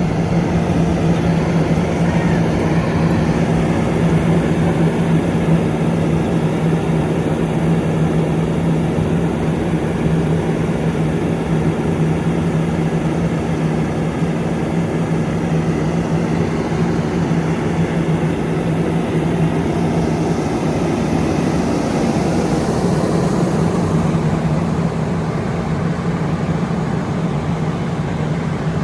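An engine running steadily with a constant low hum, unchanging throughout.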